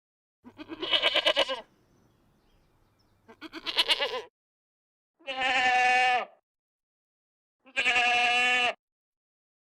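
Sheep bleating: four separate calls of about a second each. The first two waver in pitch and the last two are held steadier.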